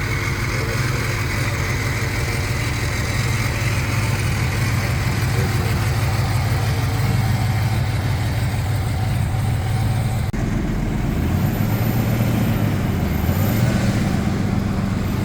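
Vehicle engine running steadily at idle with a low rumble. About ten seconds in the sound changes abruptly, and the low tone then shifts up and down.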